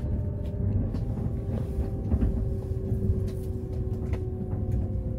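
Steady low rumble of a moving train heard from inside the passenger car, with a faint steady whine above it and a few light clicks.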